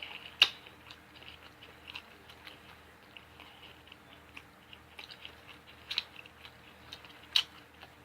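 Close-miked chewing and wet mouth noises of someone eating baked barbecue ribs, with a few sharp smacking clicks, the loudest about half a second in and another near the end.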